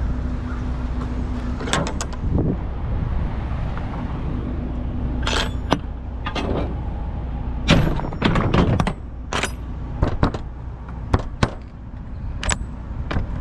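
Steady low rumble of an idling truck, with a dozen or so sharp metallic clanks and knocks at irregular intervals, the loudest about eight seconds in.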